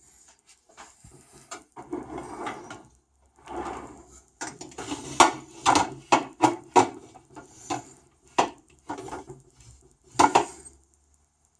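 Dishes and cutlery being handled: rustling and knocking, with a run of sharp clinks and knocks about halfway through and another sharp knock near the end.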